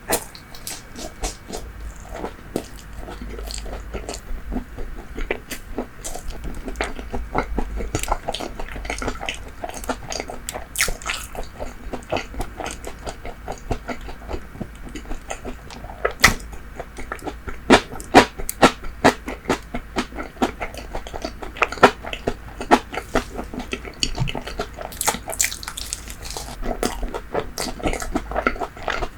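Close-miked chewing, with many irregular wet mouth clicks and smacks as soft bread and fried food is eaten.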